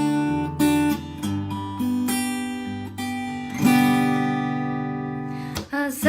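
Acoustic guitar strummed, playing the chord intro to a song, each chord left ringing, with a strong fresh strum a little past halfway.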